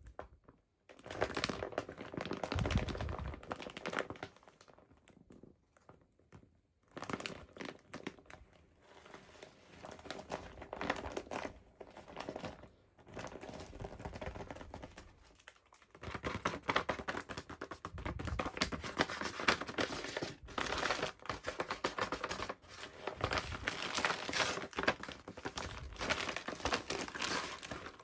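Plastic toy packaging crinkling and tearing as it is handled and opened, in several stretches of dense crackling with short pauses between.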